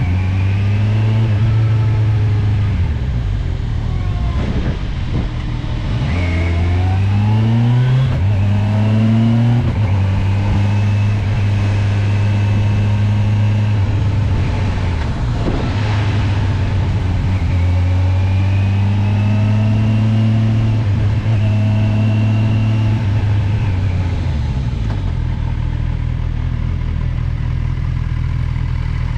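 Kawasaki motorcycle engine pulling up a steep, twisting climb: its pitch rises in steps through the gears about six to ten seconds in, holds steady at speed, then drops as it slows near the end, with wind rushing past.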